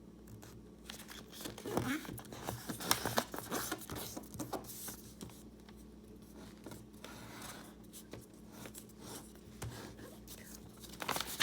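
A sheet of printer paper being folded and creased by hand: irregular rustling, scraping and crinkling as the fold is pressed flat.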